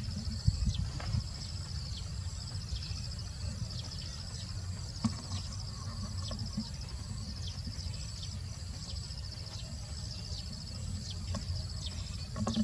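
Insects trilling steadily in a fast, pulsing high-pitched chorus, over a constant low rumble, with a few faint knocks.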